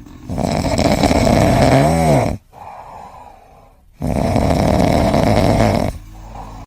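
Loud snoring: two long, rough snores about two seconds apart, the first ending in a short rising-and-falling squeak.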